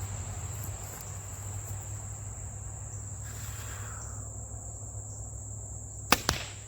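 A compound bow shot with a release aid: a sharp crack of the string near the end, followed a fifth of a second later by a second crack as the carbon arrow strikes the target. Crickets chirr steadily in the background.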